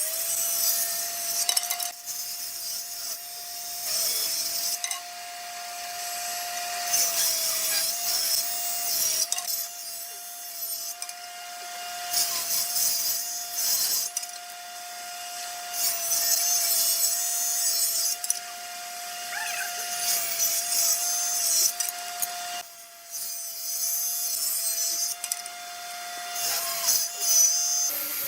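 A power tool running steadily with a constant whine, cutting into wood in repeated passes that come every second or two, with a short break a little over three-quarters of the way through.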